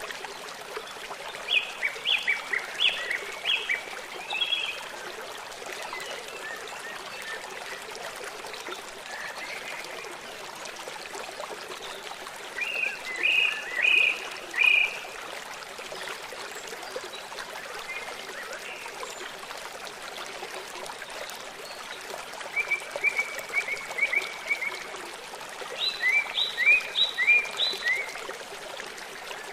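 Wild songbirds singing in short phrases of quick repeated notes, coming in four bursts, over a steady rush of running water.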